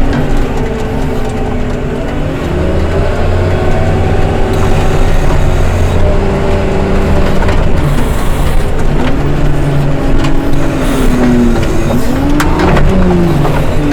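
Heavy diesel engine of a snow-removal machine running under varying load, its revs sagging and climbing again several times, with a long dip and recovery near the end.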